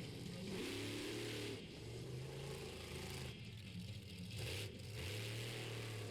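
Monster truck engine running, its low note shifting up and down as the throttle is worked.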